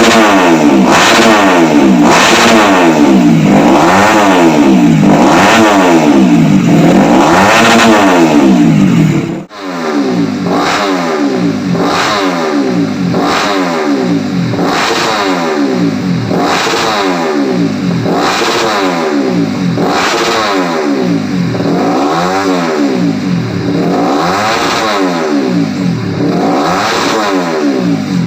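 Bored-up underbone racing motorcycle engine through a Shadow racing exhaust, revved up and let back down over and over, roughly one rev every second and a half. There is a sudden break about nine seconds in, after which the revving goes on sounding thinner.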